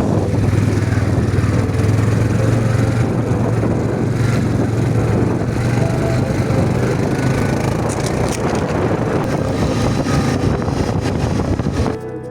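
Quad bike (ATV) engine running steadily with a low hum and rough mechanical noise, cutting off suddenly near the end.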